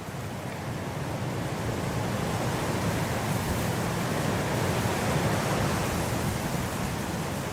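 Blizzard wind blowing, a dense rush of noise that swells in a gust toward about five seconds in and eases a little near the end.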